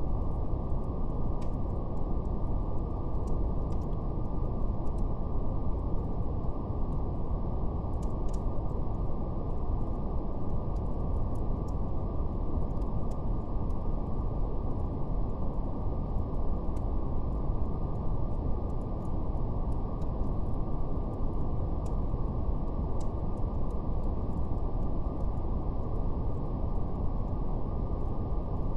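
Steady brown noise, a deep even hiss with nothing above the low-mid range, with faint, scattered crackles of a wood fire over it.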